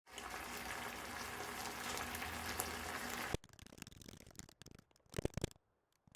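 Food sizzling and crackling in a hot frying pan, which cuts off abruptly about three seconds in. Quieter scattered clicks and a short, louder knock follow near the end.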